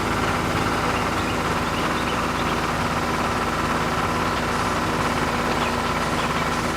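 Motor vehicle engine idling steadily.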